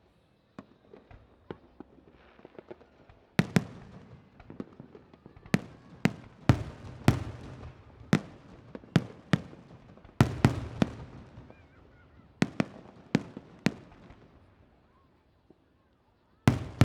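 Aerial fireworks shells bursting in an irregular run of sharp bangs, several close together, each trailing off in an echo. A quiet lull near the end, then one more loud bang.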